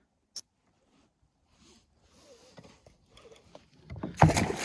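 A single sharp click about half a second in, then faint rustling. Near the end comes a sudden loud splash of water from a hooked fish thrashing at the surface beside the kayak.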